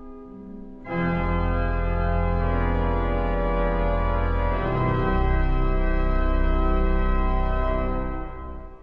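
Pipe organ playing: a soft held chord gives way about a second in to a loud full chord with deep bass, which moves to another chord about halfway and is released near the end.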